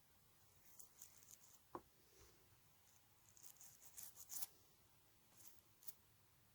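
Faint, scattered light clicks and short scratchy scrapes, a dozen or so in a few seconds, from small objects being handled.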